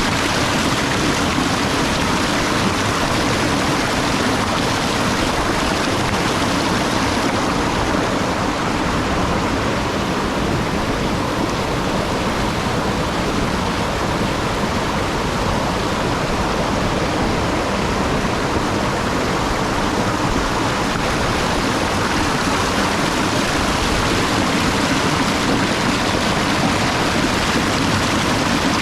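Waterfall: falling water crashing steadily onto rocks and pool.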